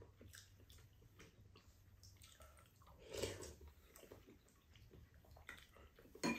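Faint chewing and small mouth clicks of people eating, with one louder mouth sound about three seconds in.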